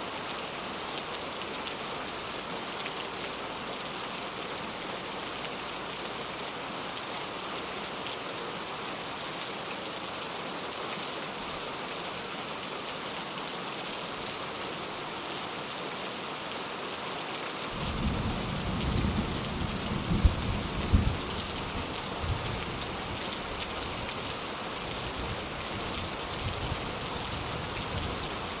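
Steady rain falling. About two-thirds of the way in a deep thunder rumble sets in suddenly, with two sharp cracks a few seconds later, then rolls away before the end.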